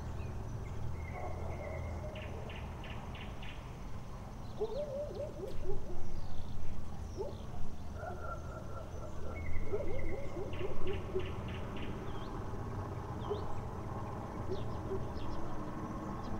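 Birds calling at night: twice, a held high whistle followed by a quick run of about five sharp notes, with lower wavering calls in between, over a steady low hum.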